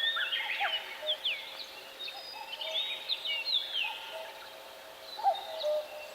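Several songbirds singing and calling at once: many short whistles and chirps, some sliding down in pitch, overlapping throughout.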